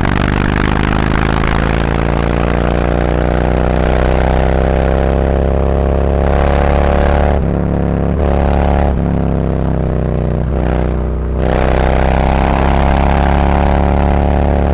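Harley-Davidson Road Glide's V-twin exhaust through SuperTrapp 4-inch internal-disc slip-on mufflers, accelerating on the road. The revs climb steadily, break off briefly a couple of times midway as it shifts up, then climb again.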